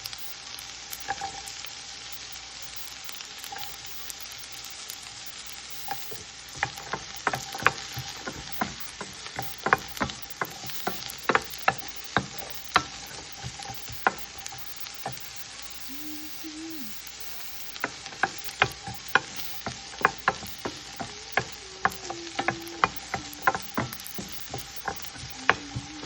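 Food sizzling in oil in a frying pan, stirred with a utensil: the utensil clicks and scrapes against the pan in quick, frequent taps from about six seconds in.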